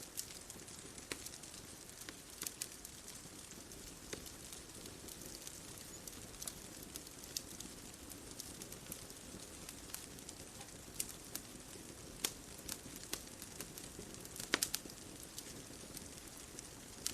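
Wood fire crackling: irregular sharp pops and snaps over a soft steady hiss, with a cluster of louder pops about two-thirds of the way through.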